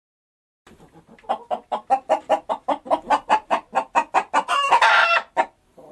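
A hen clucking in a fast, even run of about five clucks a second, breaking into a louder, longer cackle near the end.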